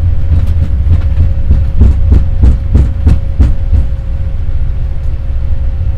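Boeing 787 Dreamliner rolling out on the runway after touchdown, heard from the cockpit: a heavy rumble from the landing gear with regular thumps about three a second that fade out after about four seconds, over a steady hum.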